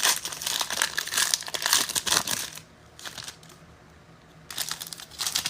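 Crinkling of a foil trading-card pack wrapper and the rustle of cards being handled, in two spells with a short pause between.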